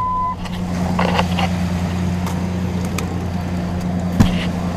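Truck-mounted air train horns, fed by an onboard compressor and air tank and fired through a 12-volt solenoid, sounding one long, steady, low blast of about five seconds that starts and stops sharply, with the engine idling underneath.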